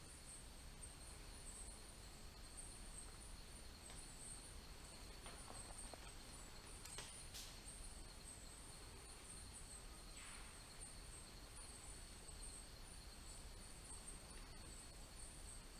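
Faint, steady chorus of night insects in the rainforest, a high shimmering trill with a thinner steady tone below it. A couple of faint clicks come about seven seconds in.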